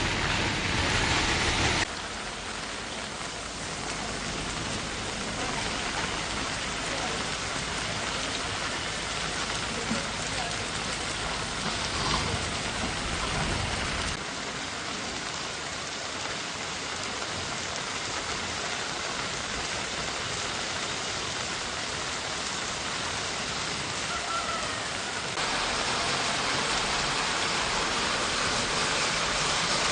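Heavy rain falling in a steady hiss, its level changing abruptly a few times.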